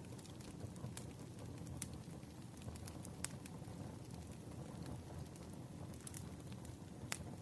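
Wood fire crackling: a steady low rumble and hiss of burning logs, with a few sharp pops scattered through it.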